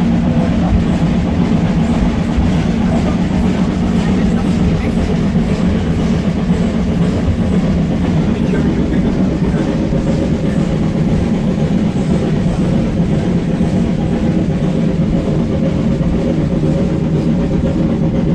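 Railway carriage running on the line, a steady rumble of wheels on rail heard from inside the train.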